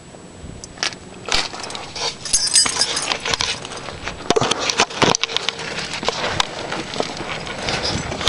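Irregular rustling and a rapid scatter of sharp clicks, starting about a second in.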